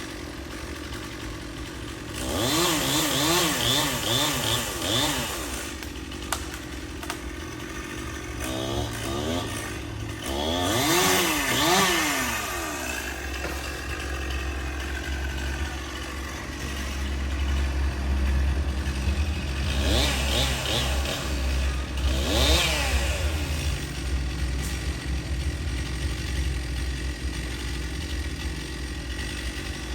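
Stihl chainsaw revved in three spells of quick throttle blips, its pitch jumping up and down, settling back between them. A low steady drone runs underneath in the second half.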